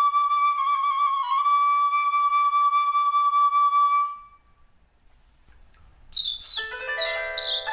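A flute holds one long high note for about four seconds, then stops. After a short gap, a bright jingle of chime-like bell notes starts near the end.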